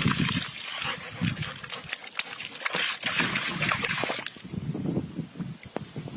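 A dog wallowing in a mud puddle: wet splashing and squelching that gets quieter about four seconds in, leaving a few scattered drips and squelches.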